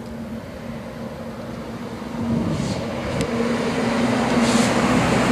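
A motor vehicle's engine running with a steady hum that grows louder over the last few seconds.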